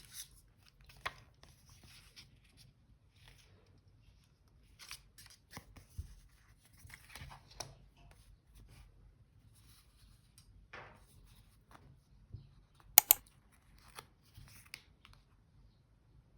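Paper and stationery handled at a desk during scrap journaling: scattered soft rustles and small taps, with what sound like scissors cuts. Two sharp, loud clicks close together about thirteen seconds in.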